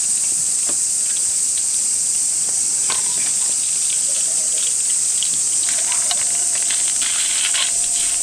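Chorus of cicadas buzzing in a steady, high-pitched drone, with scattered light clicks and knocks of cooking utensils being handled.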